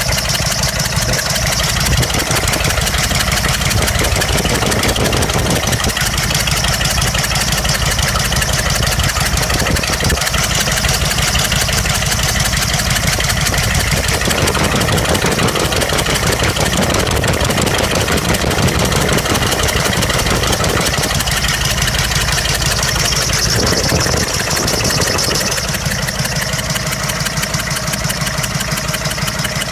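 6.5-litre Detroit Diesel V8 running at idle with a misfire on cylinder number six. Its firing pulses are steady and loud, and the sound grows fuller in the middle and eases slightly near the end.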